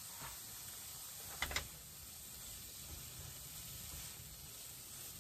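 Riced cauliflower sizzling faintly and steadily in a frying pan, with a short knock about a second and a half in.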